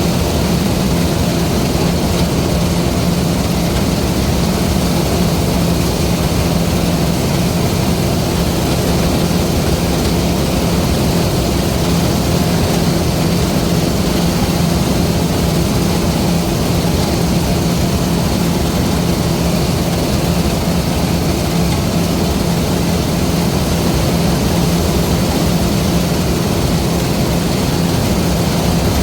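LOVOL RG130 EVO rice combine harvester running steadily, a constant low engine hum under an even mechanical noise that does not change.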